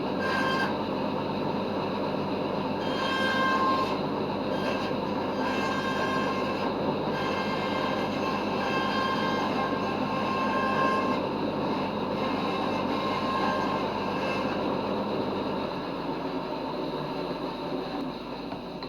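An electric power tool switches on and runs steadily, with a high whine that comes and goes every second or so.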